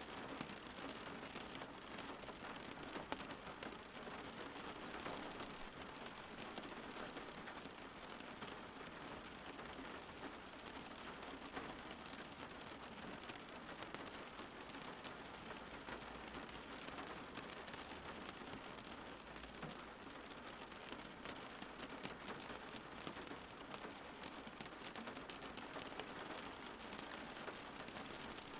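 Steady rain falling on a surface: a dense, even patter of drops, with a few louder single drops standing out.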